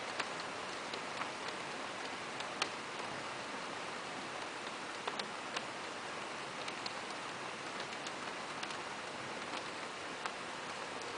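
Steady rain falling: an even hiss with scattered sharper drop ticks at irregular moments.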